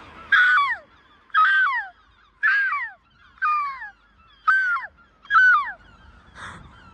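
A gull calling over and over, about one call a second, six loud calls that each fall in pitch, then a short rustle near the end.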